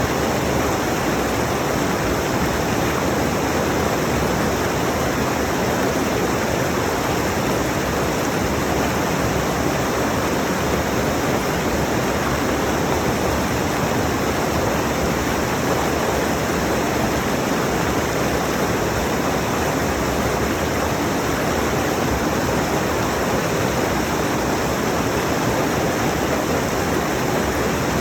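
Rushing mountain stream: a steady, loud rush of water over rocks, with no break or change.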